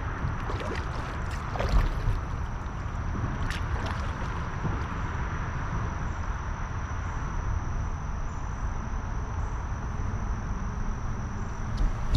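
Steady rush and gurgle of creek water around a kayak, with a few light knocks.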